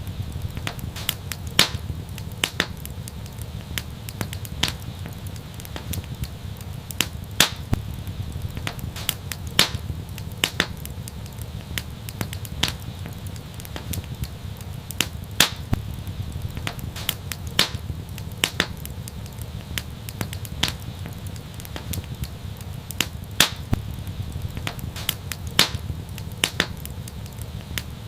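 Wood fire burning with frequent sharp, irregular crackles and pops over a steady low rumble of the flames.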